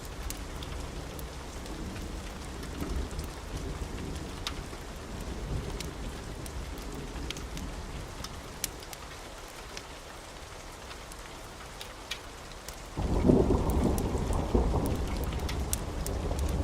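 Wood fire in a fireplace crackling, with scattered sharp pops over a low steady rumble. About thirteen seconds in, a louder low rumble starts suddenly and carries on.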